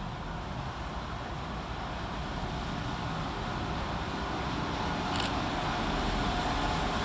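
Class 172 diesel multiple unit approaching the platform, its running noise slowly growing louder, with a brief high click about five seconds in.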